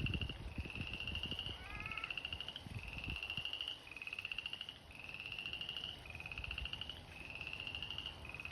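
A chorus of pond frogs calling: repeated pulsed, slightly rising trills, about one a second. Another animal's short falling call cuts in about two seconds in.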